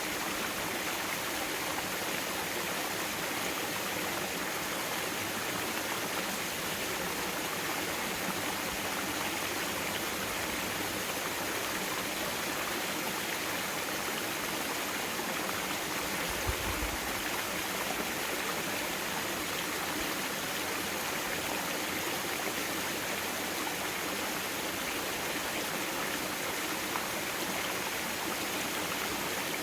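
Mountain stream water flowing over rocks, a steady rushing, with a brief low thump about halfway through.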